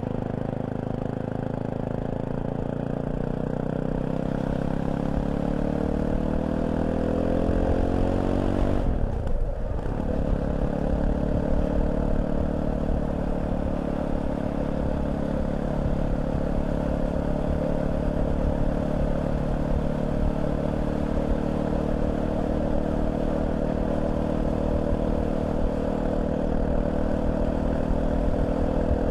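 Fantic Caballero 500's single-cylinder engine on the move, rising steadily in pitch as it accelerates for about nine seconds. It breaks off briefly at an upshift, then runs at a steady cruising pitch.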